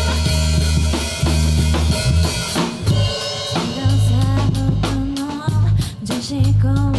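Live rock band playing, with a drum kit beating out a busy rhythm under electric bass and electric guitar.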